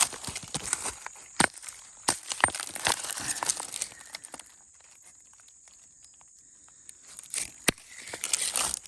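Footsteps crunching and rustling through dry fallen leaves and creek gravel, with a few sharp clicks of stones knocking together. The crunching stops for a few seconds in the middle, then resumes near the end.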